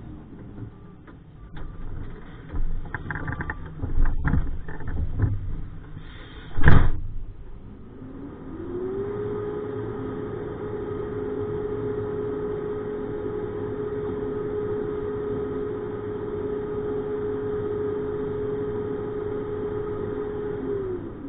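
Roll-off truck at work: a run of metal clanks and one loud bang, then a steady hum that rises in pitch, holds for about twelve seconds and falls away at the end.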